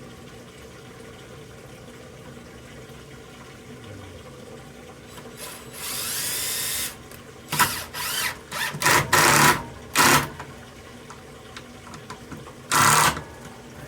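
Cordless drill driving screws in short bursts: one longer run about six seconds in, then four or five quick bursts, and one more near the end.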